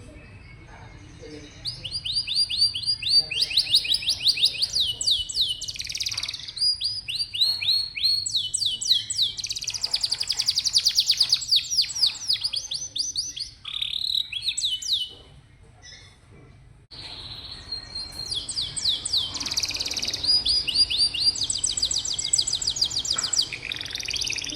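Domestic canary singing: fast trills of rapidly repeated notes, one run after another, with a short break about two-thirds of the way through before the song resumes.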